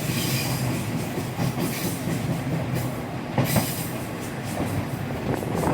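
Diesel railcar train running along the line, heard from inside the front car: a steady engine and running drone with wheels knocking over rail joints, two sharper knocks about three and a half seconds in.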